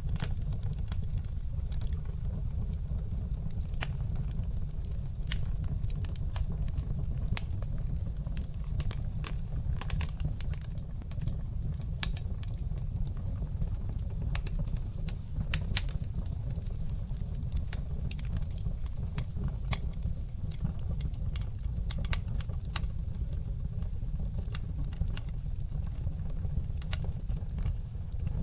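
Fire in a fireplace crackling and popping, irregular sharp pops over a steady low rumble of the flames, with one louder pop about halfway through.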